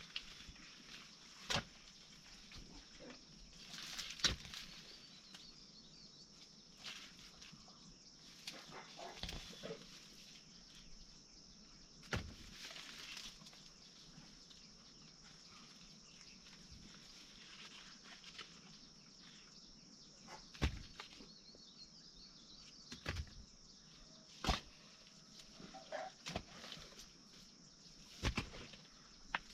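Scattered knocks and thuds from hand work in a field, a few seconds apart and irregular, over a steady high-pitched hiss.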